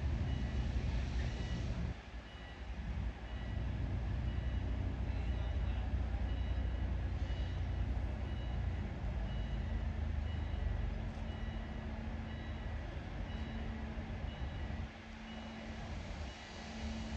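Car ferry docking: its large engines rumble low and steady while an electronic warning beeper sounds short beeps about once a second.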